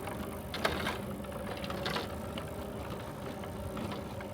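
Bicycle in motion: a steady rumble of tyres and drivetrain, with a few sharp clicks and rattles from the bike, about a second in and again near two seconds.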